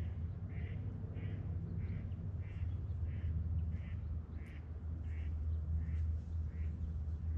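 A bird gives one short call over and over, about three every two seconds, stopping shortly before the end, over a steady low rumble.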